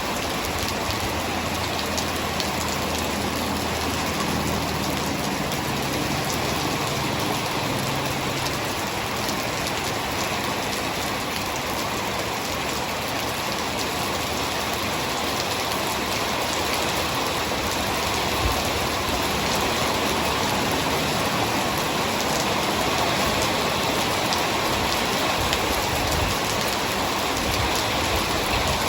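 Heavy rain falling steadily, a dense even hiss with the ticks of single drops striking a surface.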